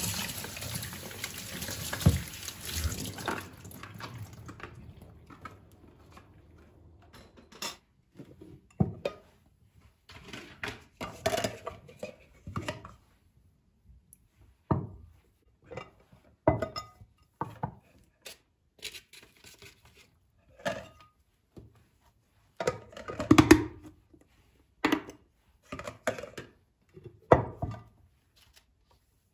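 Kitchen tap running into a sink for about four seconds, then fading out. It is followed by a string of separate clinks and knocks of dishes and kitchenware being handled and set down.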